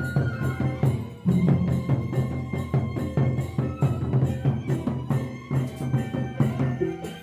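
Gendang beleq ensemble playing, with large drums and metal percussion beating a fast, busy rhythm under held melody notes. The music gets fuller about a second in.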